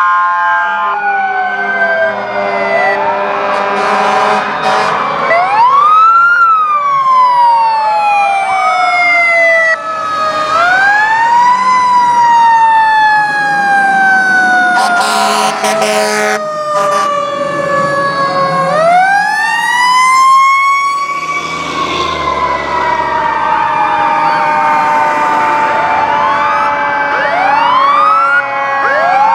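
Several fire trucks' sirens sounding together. Siren wails rise quickly and then fall slowly, three times, overlapping other wailing sirens. Steady horn blasts sound near the start and again about halfway through, over the rumble of the truck engines.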